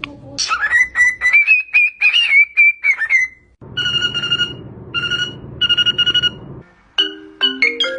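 A parrot whistling: a long, wavering whistle that rises and holds high. Then come three bursts of steady, ringtone-like ringing, and a quick run of beeping notes starts near the end.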